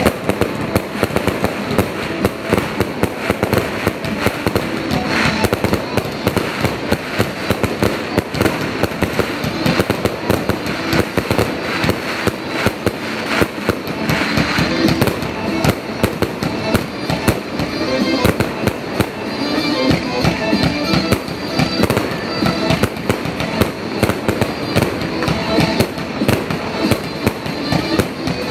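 Aerial fireworks display: a continuous, rapid run of bangs and crackles from shells bursting in the sky, with music playing underneath.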